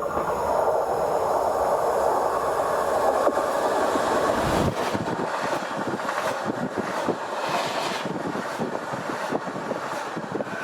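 A train passing close by: a steady rushing rumble, with rapid clicking of wheels over rail joints through the second half.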